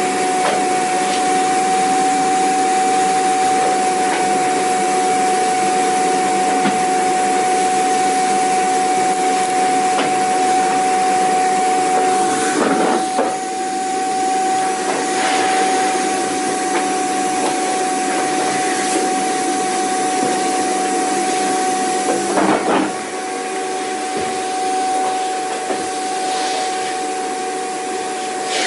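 Vacuum cleaner running steadily: a constant rushing noise with a steady motor whine. It is broken twice by a brief scuffing disturbance, about halfway and about three-quarters of the way in, and each leaves the sound a little quieter.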